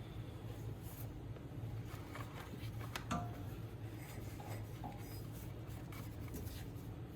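Faint scattered clicks and light taps of hand tools and small parts being handled while a GY6 scooter engine is taken apart, over a steady low hum.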